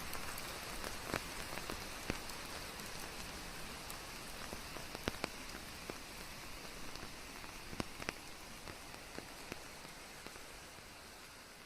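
Steady rain falling, with the sharp ticks of single heavy drops landing now and then, fading out slowly.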